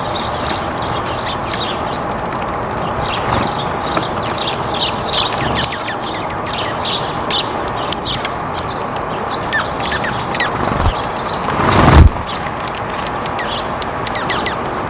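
Many small birds chirping in quick short calls over a steady background hiss. About twelve seconds in, a loud rushing noise swells for about a second and cuts off sharply.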